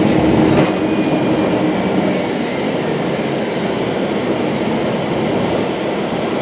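Cabin noise inside a moving airport express bus: a steady engine drone and road rumble, easing slightly about a second in.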